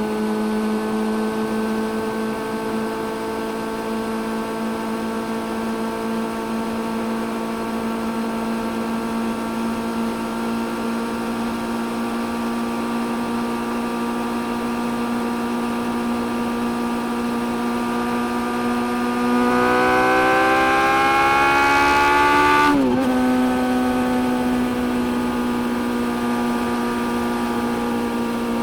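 Suzuki GSX-600F's inline-four engine running at a steady cruising pitch. About two-thirds of the way through it revs up for about three seconds, louder, then drops sharply and settles back to a steady note.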